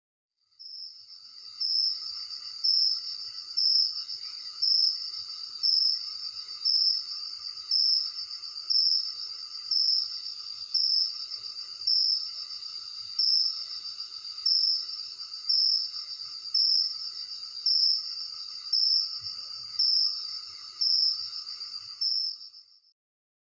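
Crickets chirping: a steady high trill with a louder pulse about once a second. It starts just under a second in and cuts off abruptly near the end.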